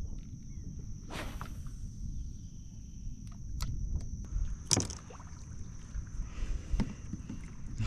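Handling noise on a kayak: low rumbling with a few brief knocks and swishes, over a steady high-pitched tone.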